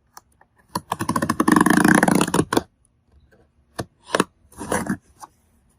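Cardboard shipping box being cut down to size: one long rasping cut lasting nearly two seconds, then three shorter cuts.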